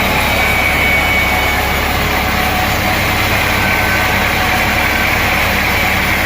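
Sawmill machinery running with a steady, even mechanical drone that does not change in pitch or level.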